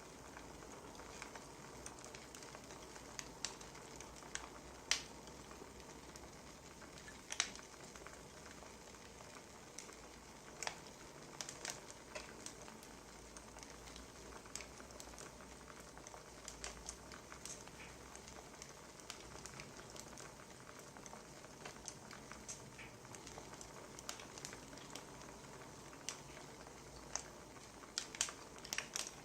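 Wood fire crackling: a steady low hiss with irregular sharp pops and snaps.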